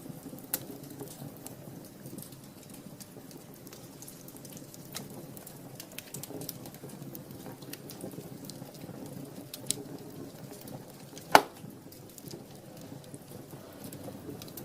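Wood fire burning in a fireplace: a steady low rustle of flames with scattered small crackles and one loud pop about eleven seconds in.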